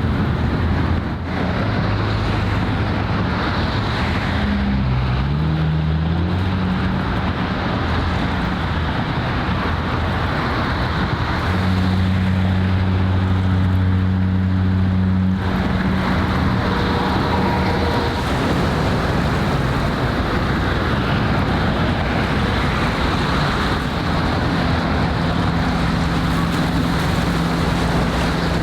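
Low engine drone from harbour vessels over the wash of waves, with wind noise on the microphone. The engine tone rises in pitch a few seconds in, and a strong steady drone cuts off abruptly about halfway through.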